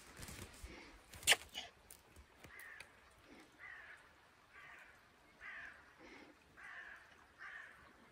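A bird calling over and over in short calls, about one or two a second, starting a couple of seconds in. About a second in there is one sharp crack, louder than the calls.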